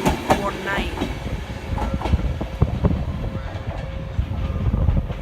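Train moving along the track, its wheels clacking over rail joints again and again above a steady low rumble.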